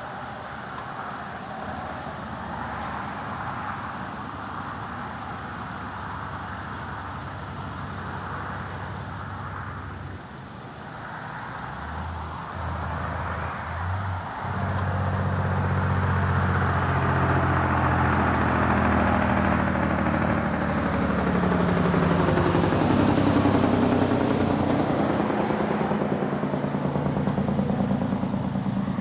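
A motor vehicle's engine running under steady wind rush on the microphone. The engine comes in about a third of the way through and gets much louder about halfway, with its pitch shifting near the end. No fireworks go off.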